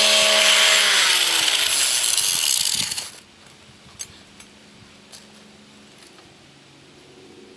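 Angle grinder grinding the ends off steel bolts. About a second in, its whine starts falling as the motor spins down, and the grinding noise stops about three seconds in. A few light clicks follow.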